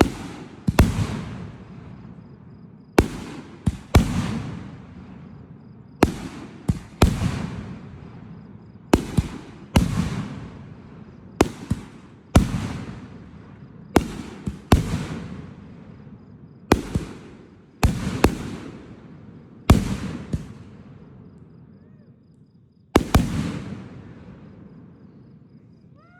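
A series of fireworks bursts going off every second or two, many in quick pairs. Each sharp bang is followed by a rumbling echo that fades away.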